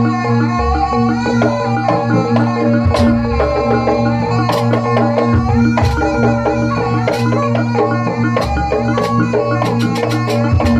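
Jaranan gamelan accompaniment playing steadily, with drums and struck metal percussion in a quick rhythm under sustained tones and a melodic line.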